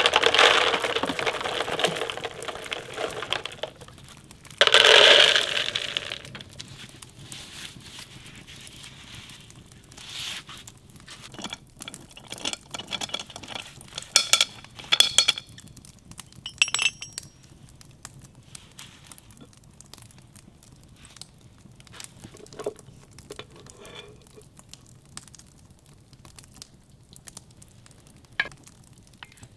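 Objects being handled: two loud rustling, scraping stretches near the start, then scattered light taps and short ringing clinks like dishes or glass being set down.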